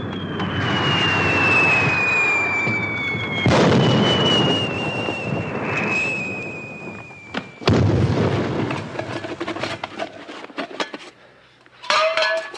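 Rockets and black-powder explosions: a whistle that falls slowly in pitch and ends in a loud bang about three and a half seconds in, a second falling whistle ending in another bang near eight seconds, then scattered crackling pops.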